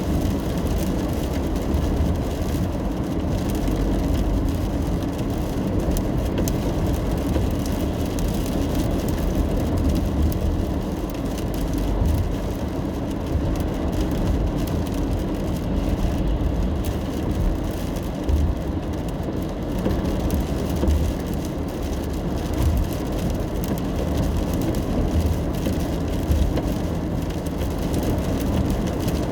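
Steady road noise heard from inside a car driving in the rain: a low rumble of tyres and engine with rain hitting the car.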